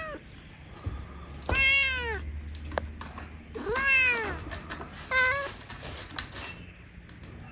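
Kitten meowing three times, each call rising then falling in pitch, the third one shorter.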